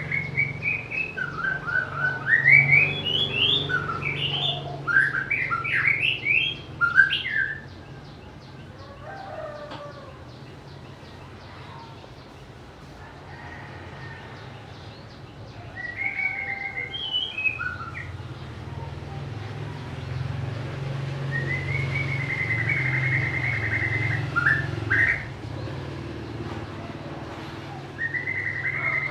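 White-rumped shama singing: runs of quick, clear whistled notes, a pause, then shorter phrases and a longer warbling phrase, over a steady low hum.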